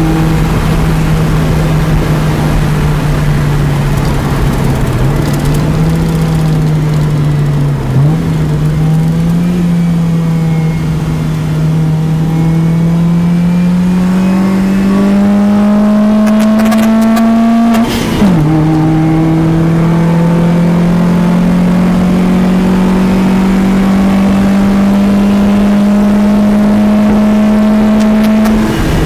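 Honda Civic's naturally aspirated, low-compression D16 SOHC four-cylinder engine heard from inside the cabin, pulling under load on track with its pitch climbing slowly. About 18 seconds in the note drops sharply with a click at an upshift, then climbs again, and it drops once more near the end.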